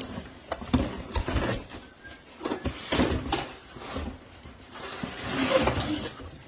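Irregular clicks, knocks and rustling as a plastic 6-inch exhaust vent hood is handled.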